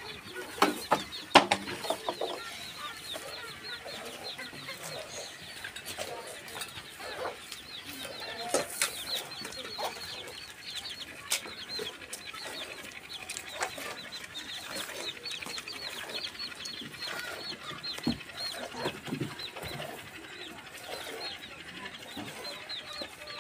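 Birds chirping over and over in quick succession, with a few sharp knocks in the first two seconds.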